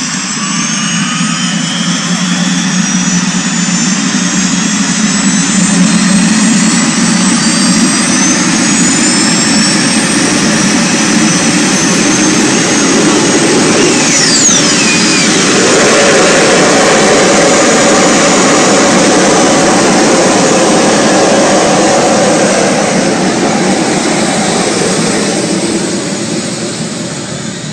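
Turbine engine of an MTT Y2K motorcycle, a Rolls-Royce Allison 250 helicopter turboshaft, running loud with a jet-like whine. The whine rises in pitch over the first few seconds, and a quick falling sweep comes about halfway through, after which the running note shifts.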